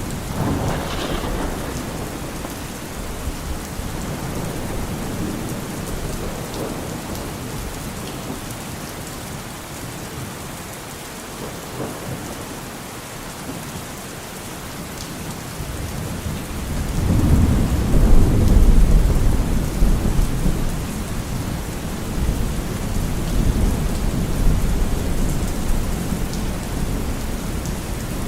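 Steady rain with rolling thunder. A low rumble of thunder swells about two-thirds of the way through, becomes the loudest sound, and trails off slowly.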